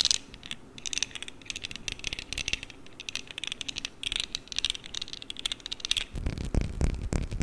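Rapid tapping and clicking on a perfume bottle, many light taps a second. About six seconds in, it gives way to a lower rubbing or rumbling handling noise.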